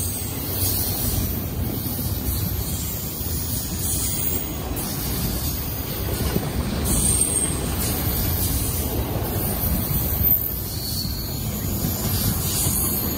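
Double-stack intermodal well cars of a freight train rolling past, a steady noise of steel wheels on the rails.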